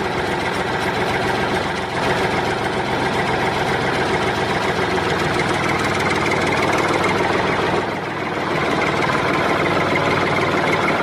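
Steady engine-like running sound, like a vehicle idling, with a brief dip about two seconds in and another near eight seconds.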